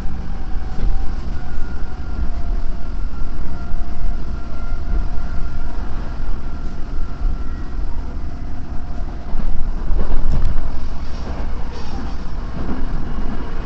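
Odakyu 4000 series electric train running, heard from inside the passenger car: a steady loud rumble with a faint motor whine that drifts slightly lower, and a few short knocks from the running gear about ten seconds in.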